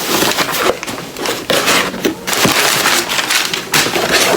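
Packaging being handled and opened: irregular bursts of rustling and crinkling.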